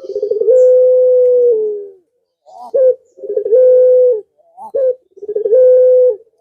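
Male puter pelung dove cooing: three phrases, each a few short rising notes leading into a long, steady coo held for about a second. These are the male's calls to a female.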